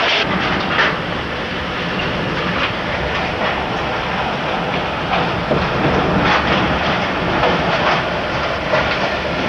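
Tornado winds of an F4 tornado rushing over a camcorder's microphone: a loud, continuous roar with brief surges, like a freight train.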